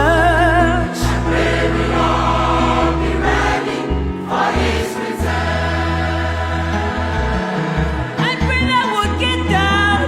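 Gospel choir singing with vibrato over a steady bass accompaniment.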